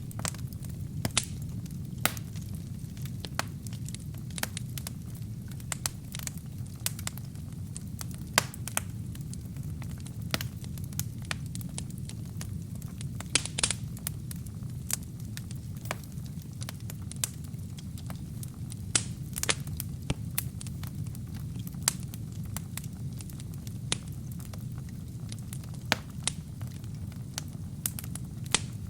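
Wood fire burning in a fireplace: a steady low rumble of flames with sharp, irregular crackles and pops from the burning logs, a few coming in quick clusters.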